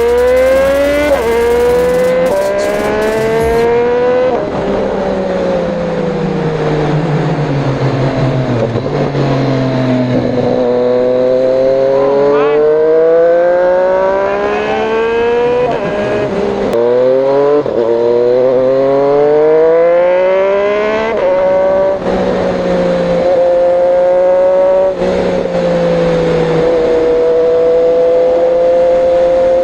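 Triumph Street Triple 765 RS inline-three engine through an Austin Racing de-cat slip-on exhaust, under way: it revs up again and again and drops in pitch at each gear change, then holds a fairly steady note with small steps near the end.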